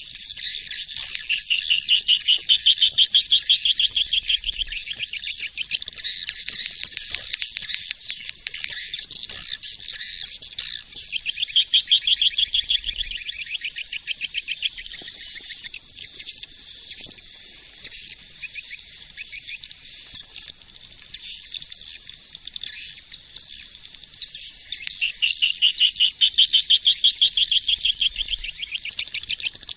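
Swiftlet calling-sound recording: dense, rapid high-pitched chattering trills of swiftlets, with nothing low in it, swelling louder a few seconds in, about twelve seconds in and near the end. This is the lure call played in swiftlet houses to draw the birds in to nest.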